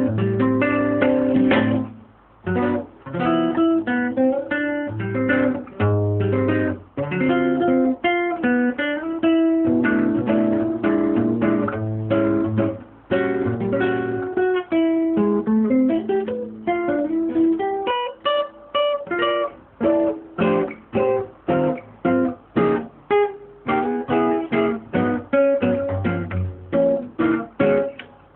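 Acoustic guitar music, plucked notes and chords played in a steady run with short pauses between phrases.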